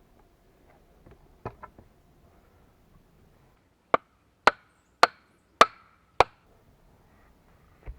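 Axe chopping into wood: five sharp blows in quick succession, about half a second apart, after a couple of lighter knocks.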